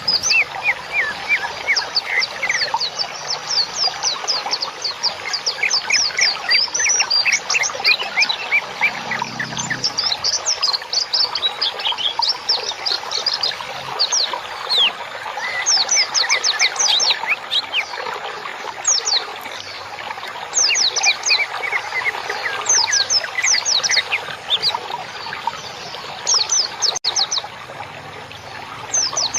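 Songbirds chirping and twittering without pause: quick series of short, high, falling notes overlapping one another, with no let-up.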